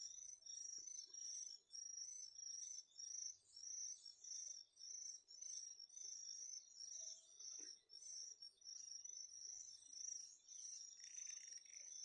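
Faint, high chirping repeating evenly, about three chirps every two seconds.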